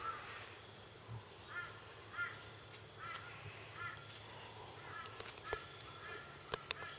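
A bird outdoors giving a run of short, harsh, rising-and-falling calls, roughly one or two a second and faint. Two sharp clicks near the end.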